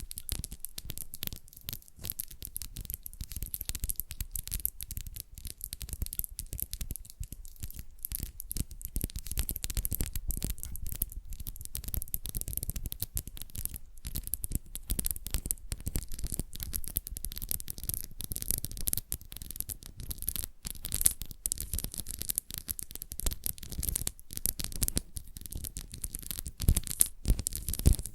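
Fingernails scratching and tapping close to the microphone in a fast, dense run of scratchy strokes and small clicks, several triggers layered over one another.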